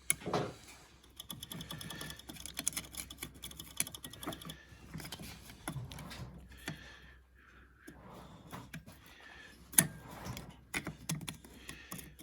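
Irregular light clicks and metallic taps of hands working on a quad bike's seized throttle linkage, with one sharp knock near the ten-second mark.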